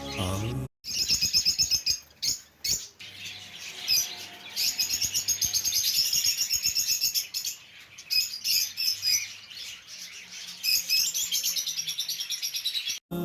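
Cockatiels chirping in rapid runs of short, high chirps, several a second, in bursts with brief pauses between them.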